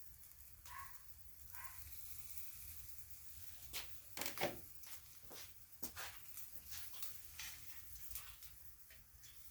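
Quail fat dripping onto hot charcoal: a faint sizzle with scattered crackles and pops, the loudest cluster about four seconds in.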